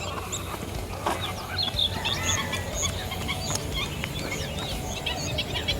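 Many birds calling at once: a dense chorus of short overlapping chirps and calls, over a low steady rumble.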